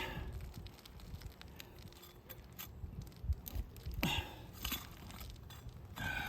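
Asphalt roof shingles being pried up with a flat pry bar: scattered light clicks and knocks, with a louder scraping, tearing noise about four seconds in and again near the end as the shingle's adhesive seal strip is pulled loose.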